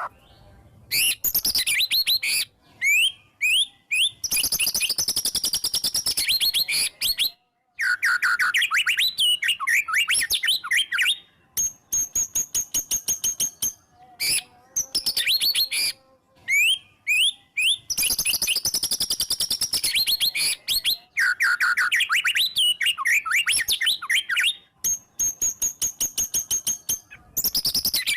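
White-rumped shama (murai batu) singing a loud, continuous song of rapid trills, sweeping whistles and fast-fire repeated notes, packed with varied mimicked phrases. A long, high, steady whistle is held once near the middle and again near the end.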